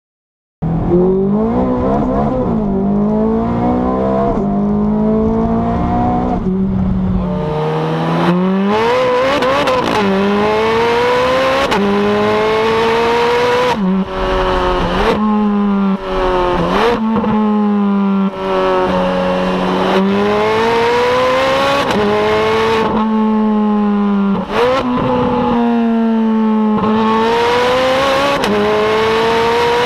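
Ferrari 430 Scuderia's 4.3-litre V8 under hard acceleration, its pitch repeatedly climbing and then dropping sharply at each quick gearchange.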